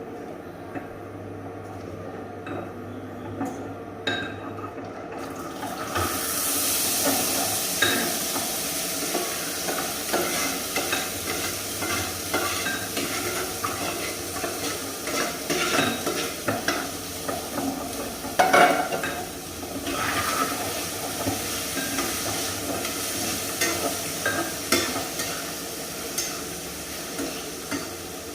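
Food stir-frying in a pan: a steady sizzle that starts about six seconds in, with a spatula stirring and scraping against the pan throughout. A few clinks come before the sizzle, and there is one louder clatter around two-thirds of the way through.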